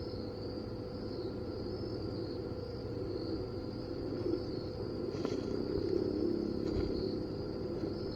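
Evening insect chorus: a steady, high, slightly wavering trill, over a low rumble of handling noise, with a couple of faint ticks about two-thirds of the way in.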